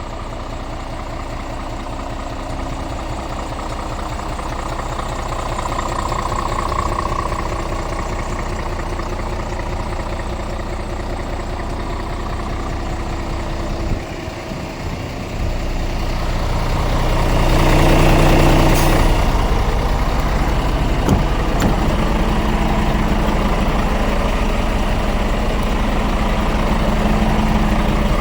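Scania R450 truck's 13-litre inline-six diesel idling steadily. It drops away briefly just past the halfway point, then comes back louder.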